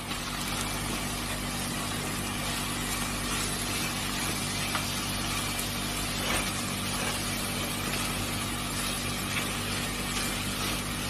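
Brown rice and chopped vegetables sizzling in oil in a nonstick kadai while being stirred and tossed with a spatula: a steady hiss with a low hum beneath and a few faint scrapes of the spatula.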